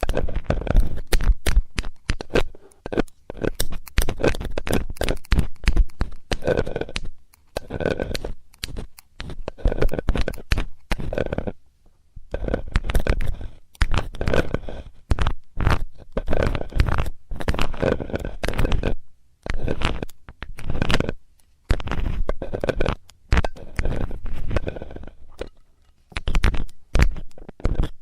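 Metal ear-cleaning tool scraping and clicking against a microphone's ear, in clusters of rapid strokes about a second long with short pauses between them.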